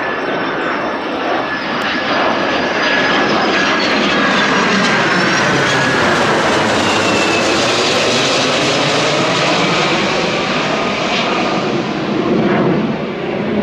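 Jet aircraft engines running loud as the aircraft passes close by: a heavy rush with whining tones that slide in pitch. It builds over the first couple of seconds, holds, then wavers near the end.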